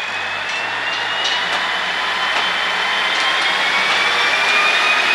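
Electric train accelerating: the traction motor whine rises slowly in pitch over the steady running noise, growing louder, with a few faint clicks from the wheels on the rails.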